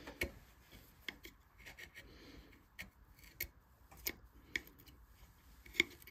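Hand carving chisels or gouges cutting into a wooden vase: irregular sharp snicks and clicks, about eight of them, the loudest near the end.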